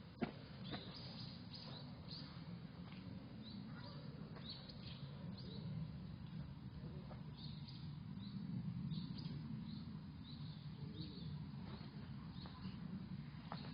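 Small birds chirping in short, repeated high calls over a steady low rumble, with a few faint clicks near the start.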